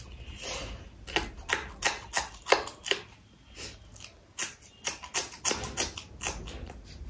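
Close-miked chewing of crispy fried samosa and raw green chilli: a steady run of sharp crunches and clicks, two or three a second.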